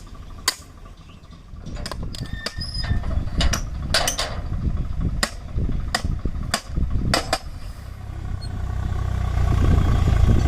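Diesel engine of heavy farm or earth-moving machinery running, its rumble growing louder near the end, with scattered sharp clicks and knocks over the first several seconds.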